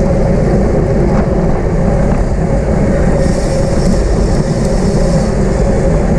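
Steady wind buffeting on the microphone with road and tyre rumble from a road bicycle racing at speed, brightening into a louder hiss for a couple of seconds about halfway through.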